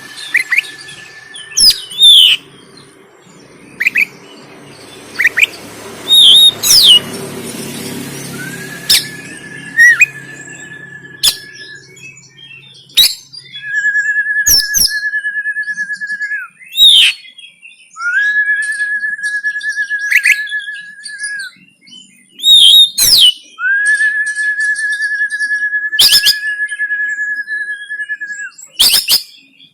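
Oriental magpie-robin (kacer) singing in fighting mode: loud, sharp whistled notes and swooping calls, joined from about nine seconds in by long, even buzzing rattles of two to three seconds each, repeated several times.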